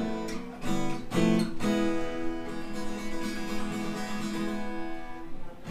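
Acoustic guitar strummed a few times, then a chord left to ring out, as the opening of a song.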